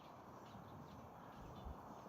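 Faint bird chirps over a quiet, low, steady rumble outdoors.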